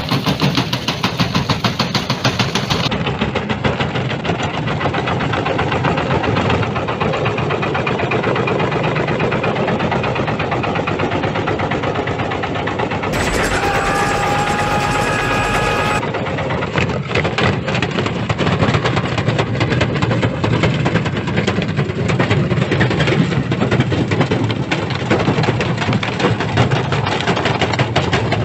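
Washing machine running with a brick loose in the drum, the brick knocking and rattling rapidly and without a break against the drum.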